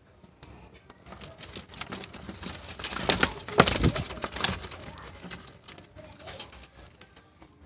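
Cockatiel moving about a wire birdcage: clicking and scratching on the bars that builds to a loud rattling cluster in the middle, mixed with short bird calls.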